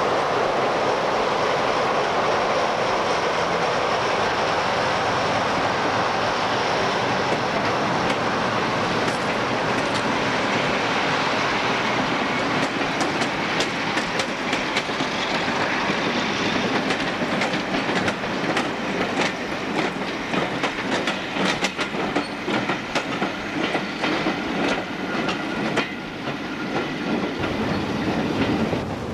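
Class 44 'Peak' diesel locomotive and its train of coaches passing and pulling away. There is a steady rumble at first, then from about a third of the way in a long run of rhythmic clicks as the coach wheels pass over the rail joints.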